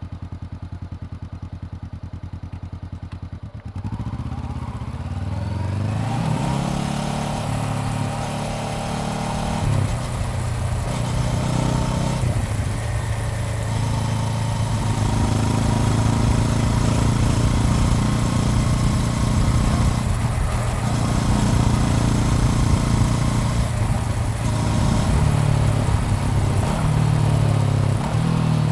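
Honda CBR400R's parallel-twin engine ticking over, then pulling away about four seconds in and accelerating through the gears. The pitch climbs and drops back at each of several upshifts.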